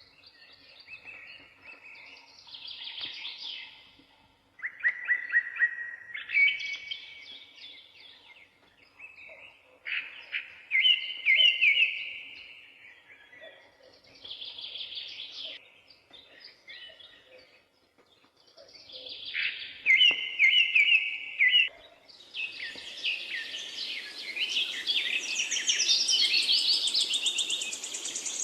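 Songbirds singing in short, repeated phrases a few seconds apart. About two thirds of the way through, a steady rushing noise comes up under denser, higher-pitched song.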